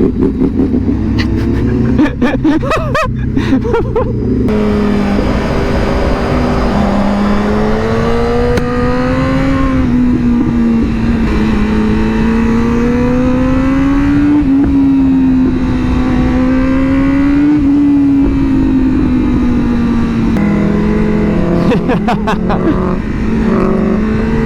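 Sportbike engine running under way, its pitch rising and falling slowly with the throttle, over steady wind noise. A few sharp clicks come about two to four seconds in and again near the end.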